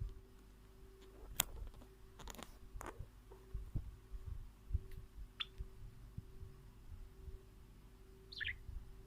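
A few sharp clicks and light knocks over low handling rumble and a steady hum, with two short high chirps from a small bird, the second near the end.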